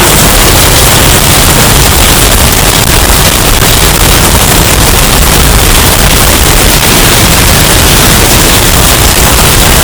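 Hurricane wind sound effect, bass boosted and overdriven until it clips into a steady wall of harsh, distorted noise at full loudness.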